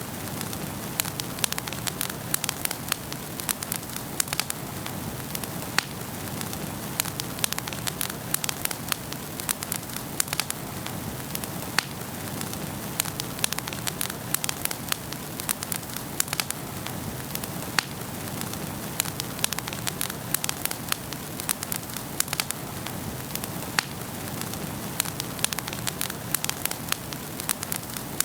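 Wood fire burning in a fireplace: a steady hiss with many irregular sharp crackles and pops.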